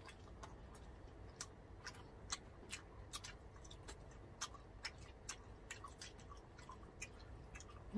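Faint mouth sounds of people chewing food: small wet clicks and smacks, irregular, about two a second.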